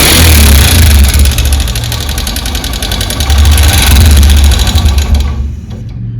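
Honda SP 125 single-cylinder engine running with a loud, rapid 'kit-kit-kit' ticking clatter from the top end. On teardown the rocker arm bearing proved broken and the tappet clearance far too wide. The ticking and high-pitched part of the noise drop away about five seconds in.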